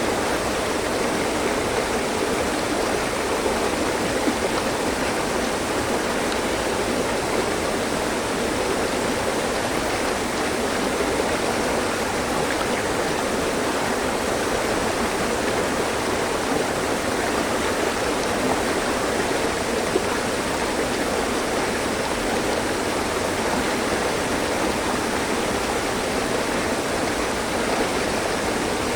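Mountain stream running over rocks: a steady rush and babble of water that does not change.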